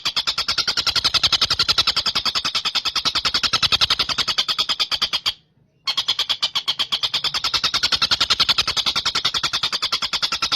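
Tengkek buto kingfisher calling: a fast, even rattle of sharp high notes, about a dozen a second. It breaks off for half a second around the middle, then starts again.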